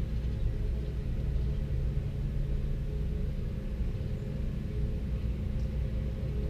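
A steady low rumble with held deep tones, without breaks.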